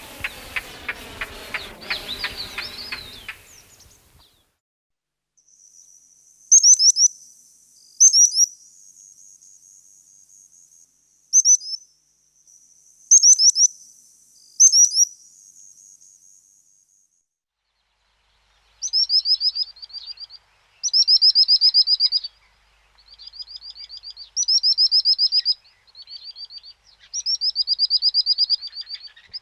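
A rapidly pulsing animal call stops about three seconds in. Then birds call high: a thin steady whistle broken by five sharp downward chirps, followed by a series of rapid high trills.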